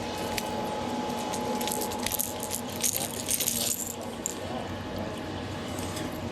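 Rattle Trap lipless crankbait rattling in irregular bursts, its loose metal beads jingling as it is shaken and handled, typical of a lure being worked free of a just-caught fish. A faint steady tone runs under the first half.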